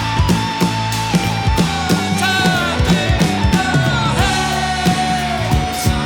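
Live rock band playing an instrumental passage: drums keeping a steady beat under bass and a bending lead electric guitar line.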